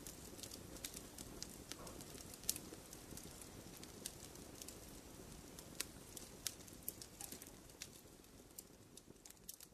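Wood fire crackling: irregular sharp pops and snaps from burning logs over a soft low rumble of the flames, growing gradually quieter near the end.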